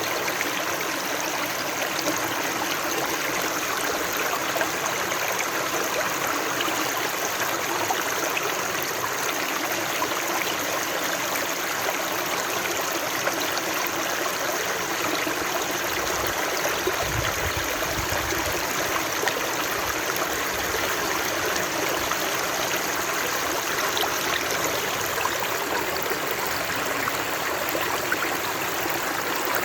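Running water rushing and babbling steadily, like a stream, with no pauses or changes. A brief low rumble comes through a little past halfway.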